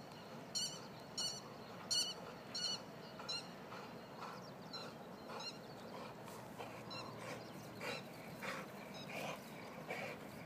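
A bird's short, high call repeated evenly, about one every two-thirds of a second, the loudest sound for the first three seconds and then fading to a few fainter calls. Later there are soft irregular rustles and breaths as a pit bull trots back through the grass.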